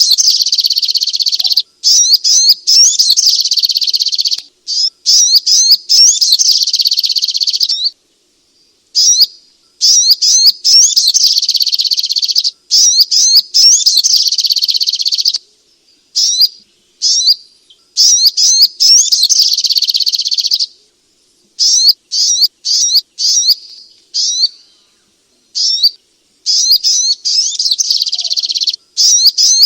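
Little spiderhunter (sogok ontong) singing: fast runs of high, sharply rising notes in bursts of a few seconds, separated by short pauses.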